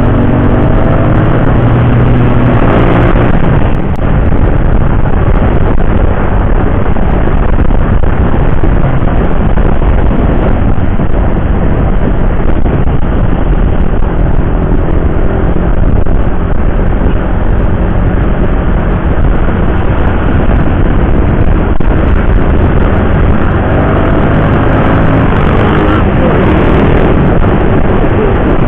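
Heavy wind rush on a riding motorcycle's microphone over road and engine noise. A steady engine drone sounds in the first few seconds, and a rising engine note comes in near the end.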